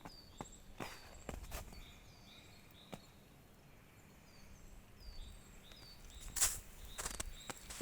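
Small songbirds calling in woodland, a string of short, high notes that each fall in pitch, repeated about once a second, with a faint high trill behind. Irregular crunching footsteps, the loudest about two-thirds of the way through.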